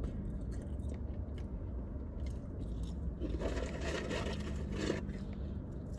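A person chewing food close to the microphone, with short crunches and a denser crunching stretch past the middle, over a low steady hum.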